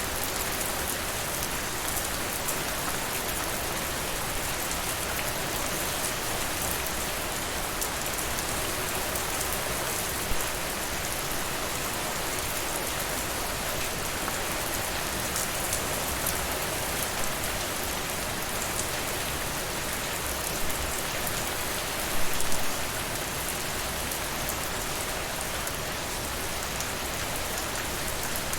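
Steady rain, mixed with the crackle of a wood fire in a fireplace. A few louder pops stand out, the loudest a short cluster about three-quarters of the way through.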